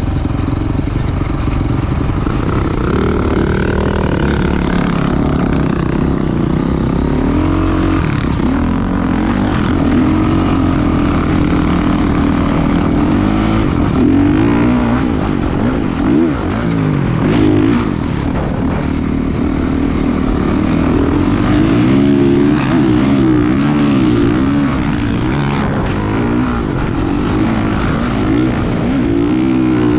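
Motocross dirt bike engine running, its pitch rising and falling again and again as the throttle is opened and closed.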